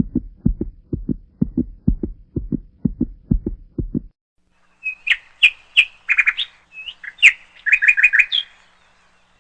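Low rhythmic thumps, about three a second, that stop about four seconds in. Then a bird sings a burst of quick chirps, ending in a fast run of repeated notes.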